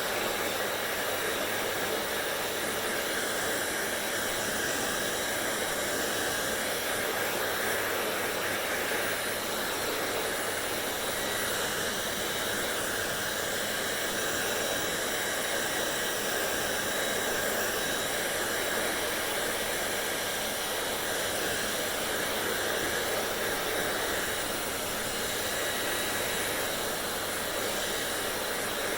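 Hair dryer blowing continuously, a steady rush of air and motor noise with a slight slow wavering in its tone.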